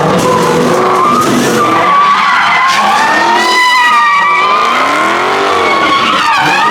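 A car's tires squealing and skidding continuously on pavement, the squeal wavering up and down in pitch as the car spins.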